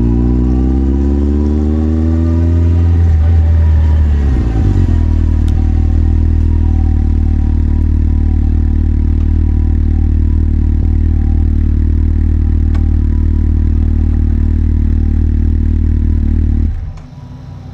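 Motorcycle engine revving, its pitch rising over the first few seconds, then running at a steady note. The engine sound drops away suddenly near the end.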